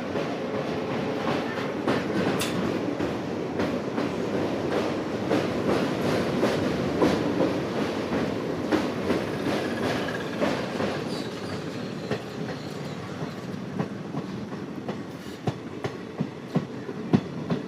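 Passenger train rolling along the track, a steady rumble with frequent sharp clicks of the wheels over rail joints, easing off a little after about twelve seconds.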